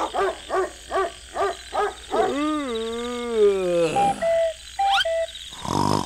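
Night-time animal sound effects: a run of short pitched calls, about two and a half a second, then one long wavering call that falls in pitch. After that come a few short beeping tones and a quick rising whistle.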